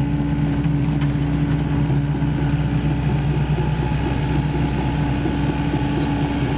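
Sany SY75 excavator's diesel engine running steadily at a constant pitch, with faint short high chirps repeating near the end.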